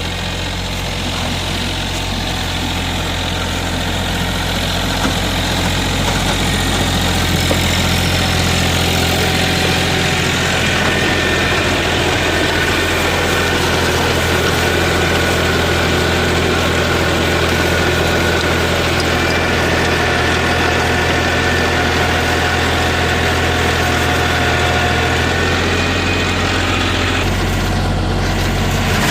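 Mahindra OJA 2130 compact tractor's three-cylinder diesel engine running steadily at working speed while driving a rotavator. The sound changes about two seconds before the end.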